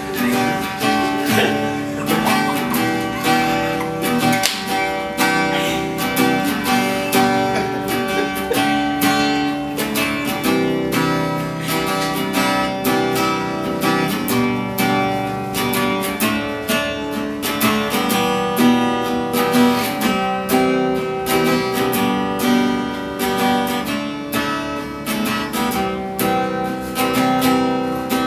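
Acoustic guitar strummed steadily in a rhythmic chord pattern, an instrumental passage without singing.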